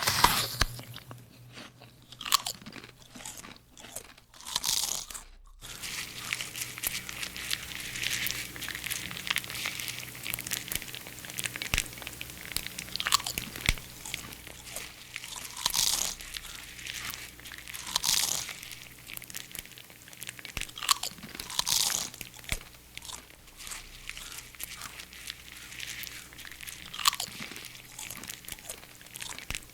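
Crunching and chewing: something crunchy is bitten and chewed over and over, a steady crackle with louder crunches every two to three seconds.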